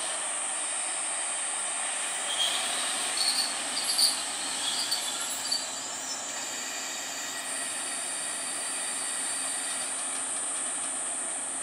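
Kashima Rinkai Tetsudo 6000-series diesel railcar rolling slowly into the station and braking to a stop, with several short high squeals from the wheels and brakes between about two and five and a half seconds in. A steady high hiss runs underneath.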